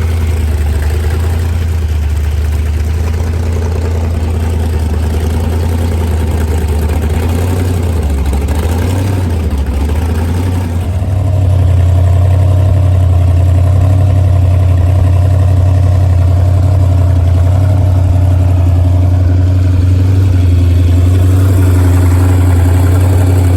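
Boat engine running with a steady low drone. It wavers about eight to ten seconds in, then gets louder at about eleven seconds and holds there.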